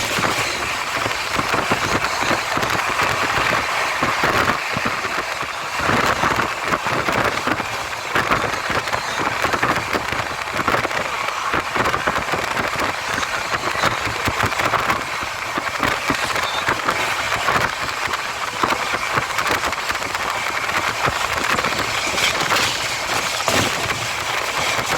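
Express passenger train running at speed: a steady, dense rattle and clatter of wheels on the track and coach fittings over a constant rushing noise.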